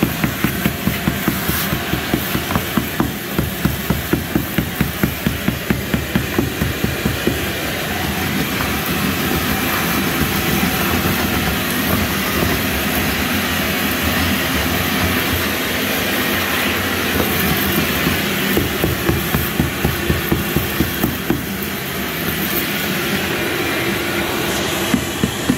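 Power tool chipping old thinset out of a tile bed on a concrete-board subfloor, running with a rapid hammering and regular louder strokes about three a second. Through the middle it runs more evenly before the strokes return near the end.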